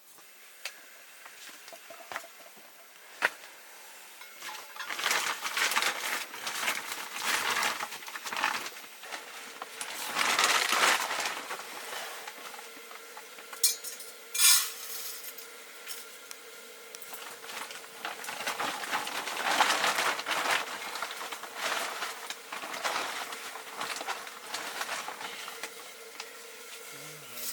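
Cooking sounds: metal pots and utensils clinking and scraping in irregular bursts, with a few sharp clinks.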